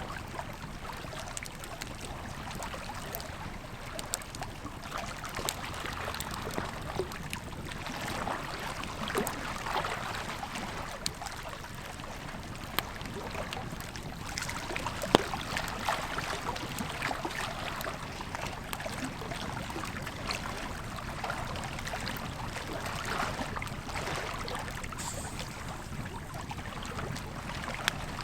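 Campfire crackling with scattered sharp pops, one louder pop about halfway through, over the steady rush of a flowing river.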